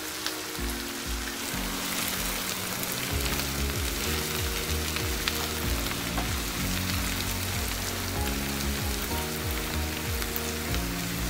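Sliced button mushrooms and onions sizzling in butter and olive oil in a frying pan as they begin to caramelise, stirred with a wooden spatula. Background music with chords changing about once a second plays under the sizzle.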